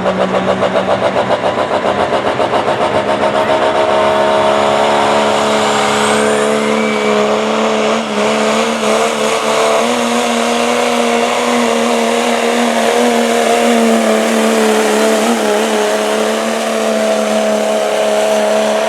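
Turbo diesel pickup in a 2.6-class truck pull, its engine running flat out under load while it drags the sled. The note pulses for the first few seconds, then holds high and steady, with a faint rising turbo whistle about five to seven seconds in.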